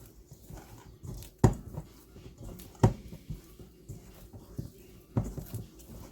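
Pizza dough being kneaded by hand on a floured counter: three heavy thumps as the dough is pressed and slapped down, with lighter knocks and handling between them.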